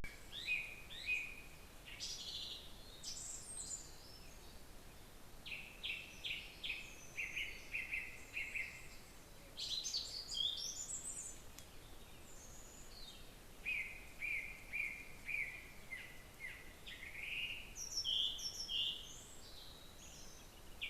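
Small birds singing: scattered short phrases of quick, high chirps and runs of repeated notes, faint, with a pause of a second or so between phrases.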